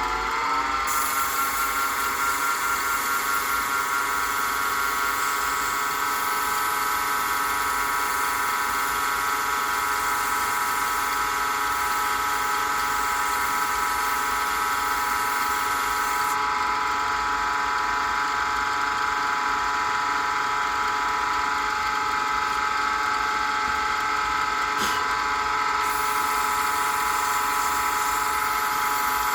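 Small wood lathe running at a steady speed, a motor whine of several even tones with a high hiss over it. The hiss drops away about halfway through and comes back near the end.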